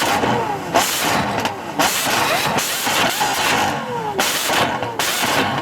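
Sports car engine revved hard again and again, about one throttle blip a second, the pitch falling away after each.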